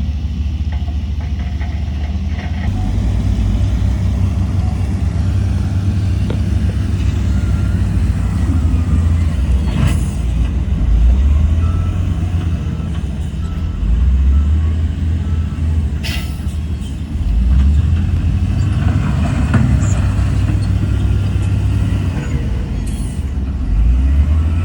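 Heavy diesel engine of earthmoving machinery running under load, a deep rumble that rises in pitch several times as it is revved. Two sharp knocks stand out, about ten and sixteen seconds in.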